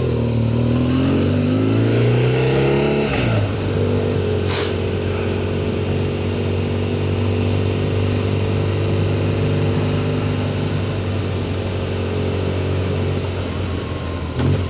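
BMW R1200GS boxer-twin engine running: its pitch climbs over the first three seconds, then falls and holds steady. There is one brief sharp click about four and a half seconds in.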